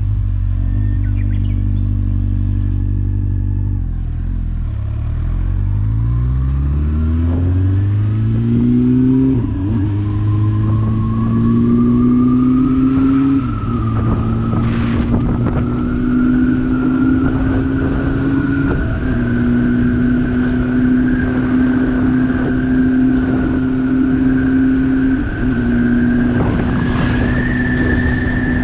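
Motorcycle engine pulling away, its pitch rising steadily over about five seconds. It then runs at a steady pitch, with brief dips about 13, 19 and 25 seconds in as it shifts up through the gears.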